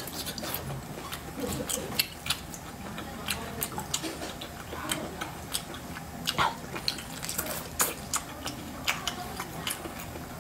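A person chewing octopus in chili oil: wet, irregular smacking and clicking mouth sounds.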